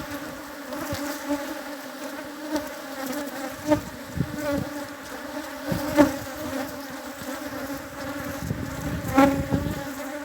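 Honeybees buzzing steadily around an open hive, with three sharp knocks during it.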